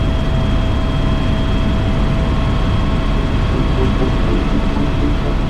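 Cabin noise of an AS355 Twin Squirrel twin-turbine helicopter in flight: a steady low rotor and engine rumble with a constant high turbine whine.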